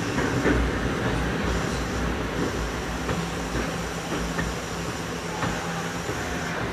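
Nagoya Municipal Subway 3000 series chopper-control electric train, heard from inside the car, slowing to a stop at a station platform: the running rumble fades. From about halfway a steady low hum from the car's equipment remains.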